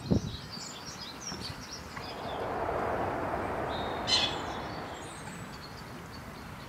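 Small birds chirping and calling in short high notes, with a sharper burst of calls about four seconds in. A soft thump comes right at the start, and a broad rush of noise swells up in the middle and fades away.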